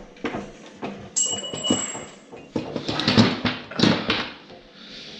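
Several knocks and clunks of a snowmobile engine being tipped back upright and handled, with a brief high squeak about a second in.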